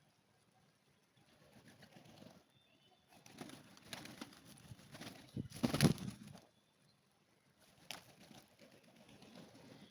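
Pigeons cooing off and on, with a louder flurry about halfway through that sounds like wings flapping.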